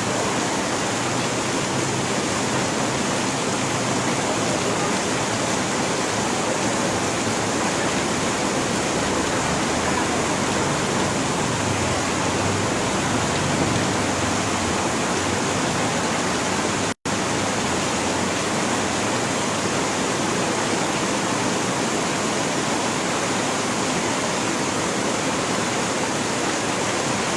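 Heavy monsoon rain pouring down in a steady, even hiss, with no let-up; the sound cuts out for an instant about two-thirds of the way through.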